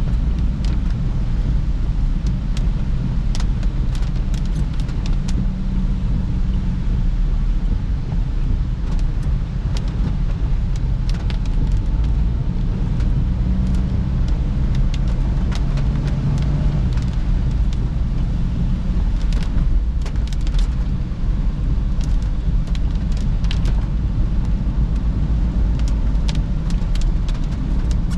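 Perodua Bezza car driving, a steady low engine and road rumble heard from inside the cabin, with scattered short clicks throughout.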